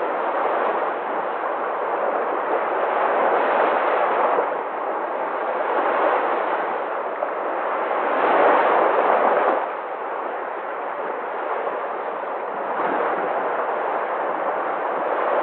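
Sea waves in a continuous rush of surf that swells and ebbs. The loudest surge comes about eight seconds in and drops away sharply about a second and a half later.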